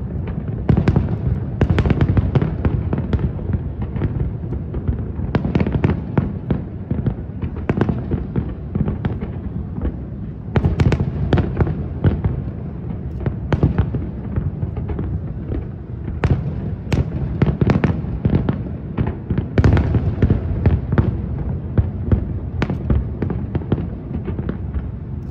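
Aerial fireworks shells bursting one after another, with sharp bangs and crackles over a continuous low rumble of echoing booms. The bangs come in quick clusters several times.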